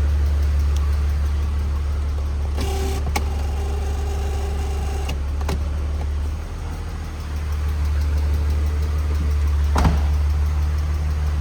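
A BMW Z3 3.0's straight-six engine idling steadily. A few seconds in, an electric power-seat motor whines for about two and a half seconds, with sharp clicks around it and another click near the end.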